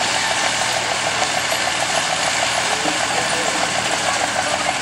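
Dodge diesel pickup truck engine running loud and steady, with a fast, even pulsing throughout.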